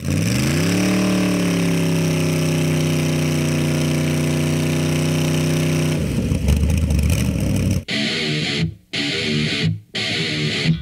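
A V8 motorcycle engine revs up over the first second and holds a steady high rev for about five seconds. Then heavy rock music with guitar takes over, cutting out dead for split seconds three times.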